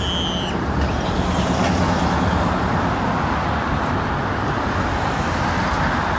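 Loud, steady engine rumble that swells and eases slightly, with no clear pitch.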